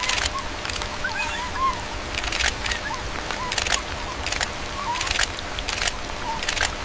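Repeated short, high squeaking animal calls, about a dozen, each a brief rise and fall in pitch, mixed with scattered sharp clicks and knocks.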